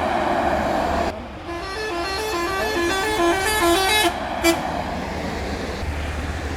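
A truck passes with loud engine and road noise, then a musical horn plays a quick tune of short stepped notes, followed by one short toot. Engine noise from the convoy continues underneath.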